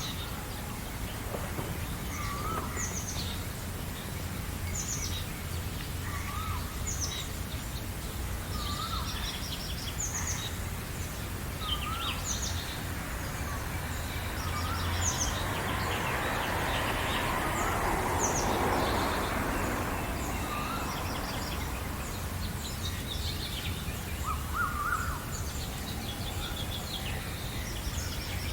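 Wild birds singing in a morning chorus: quick, high chirps repeat throughout, and a lower whistled call comes back every couple of seconds. About halfway through, a broad rushing noise rises and fades for several seconds.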